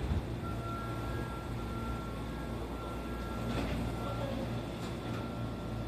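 Sotetsu commuter train standing at the platform after stopping: a steady low hum with a thin steady tone over it, and a few faint clunks around three and a half to five seconds in as the train and platform screen doors open.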